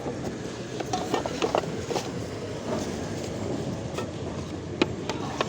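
Outdoor flea market ambience: a steady background din with scattered short clicks and knocks.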